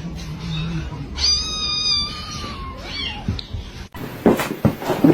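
A cat meowing once, a long high call about a second in that falls slightly in pitch.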